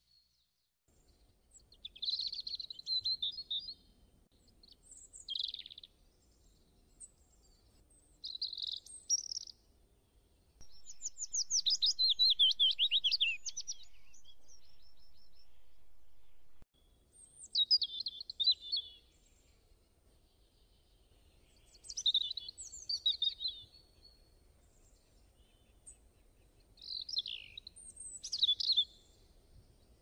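Small birds chirping and calling in short high-pitched bursts a few seconds apart, with a longer run of rapid repeated chirps in the middle, over a faint low background hum.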